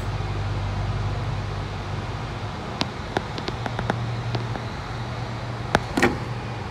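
Metro train running through a tunnel as it pulls into a station: a steady rumble and low hum, with a scatter of sharp clicks about halfway through and two louder clicks near the end.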